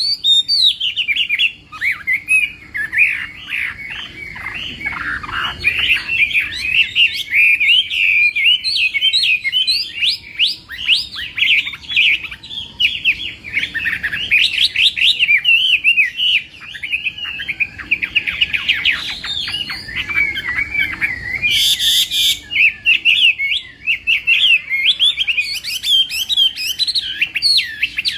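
Chinese hwamei singing a long, rapid, varied song of loud whistled phrases and trills, with a short burst of noise about two-thirds of the way through.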